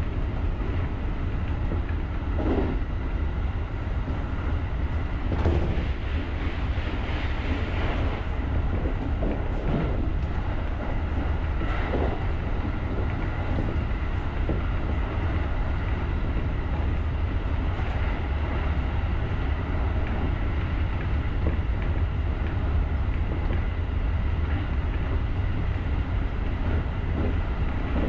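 JR rapid electric commuter train running along the line, heard from the driver's cab: a steady low rumble, with a few soft knocks from the track in the first half.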